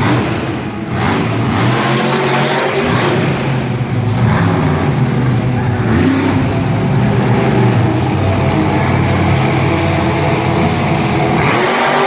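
Monster truck's supercharged V8 engine revving hard, its pitch rising and falling, with a brief dip about a second in.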